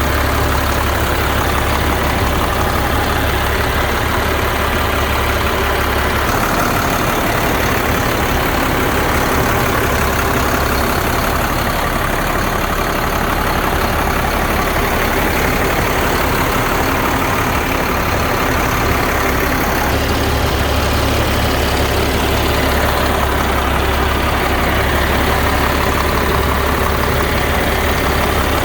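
Caterpillar C7 inline-six diesel in a 2004 Sterling truck idling steadily, its top end freshly rebuilt.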